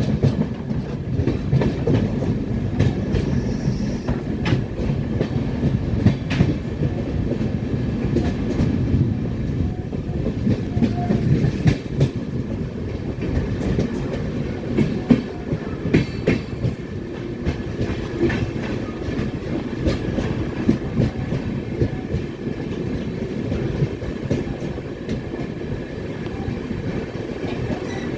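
Moving passenger train: a steady rumble of wheels running on the track, with irregular sharp clacks over rail joints.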